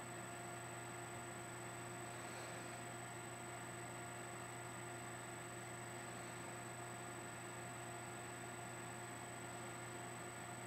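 Steady low electrical hum with a few faint, constant whine tones, one of them high-pitched, over a soft hiss. No distinct events.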